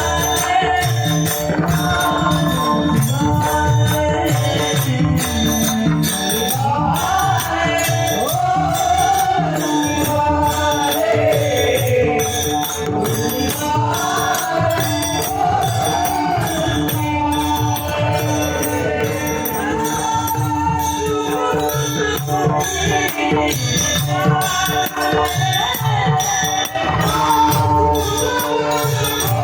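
Marathi devotional gavlan music: a steady beat of jingling rattle-like percussion under sustained held tones, with a sliding, ornamented melody line coming in about a third of the way through.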